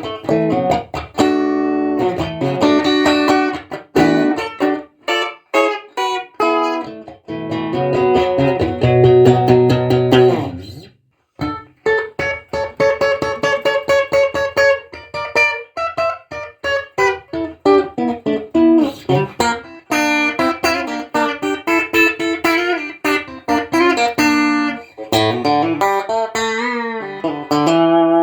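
Stratocaster-style electric guitar with an ash body, played in a clean melodic passage of picked notes and chords. It stops briefly about eleven seconds in, goes on with quick runs, and ends with bent notes.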